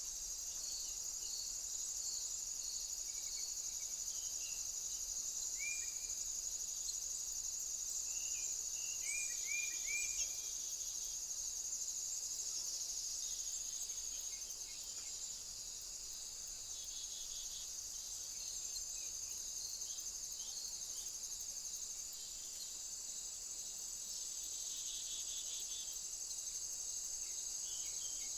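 Steady high-pitched insect chorus, with short bird chirps scattered through the first ten seconds and a few more later.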